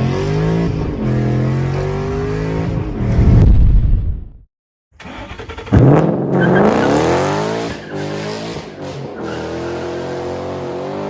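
2013 Mustang GT's 5.0 V8 through a resonator-deleted, essentially straight-piped cat-back exhaust, very loud. It runs steadily, swells near the three-second mark, and cuts off abruptly. After a brief gap it comes back with a sharp rev that climbs and then settles to a steady run.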